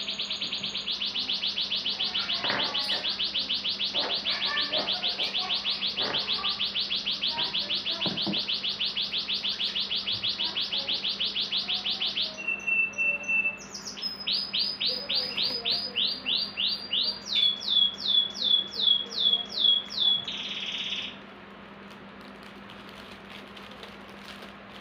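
A songbird singing loudly: a long, fast, even trill for about twelve seconds, then a short steady whistle and two runs of quick down-slurred notes, cutting off about twenty-one seconds in. A few faint knocks sound under the trill.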